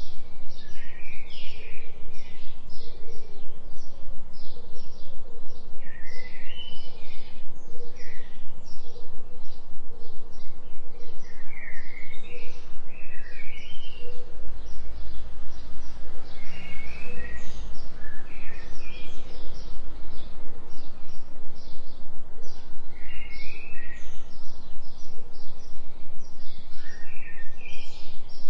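Birds chirping and calling in a forest soundscape, with many short repeated chirps and bursts of zigzag song phrases. Under them runs a steady low hum: a binaural delta-wave tone.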